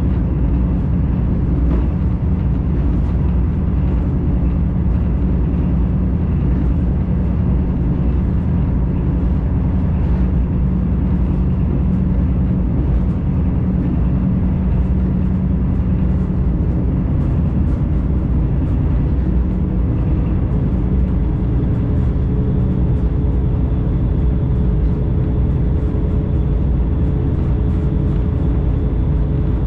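Steady low rumble of a commuter train under way, heard from inside the passenger car, with faint scattered clicks. A faint steady hum joins about two-thirds of the way in.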